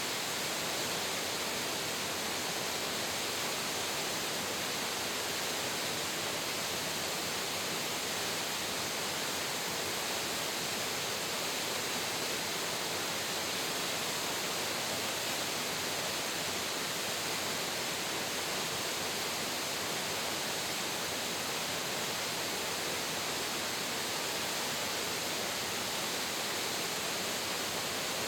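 Low waterfall pouring onto rocks, a steady rush of water with no breaks.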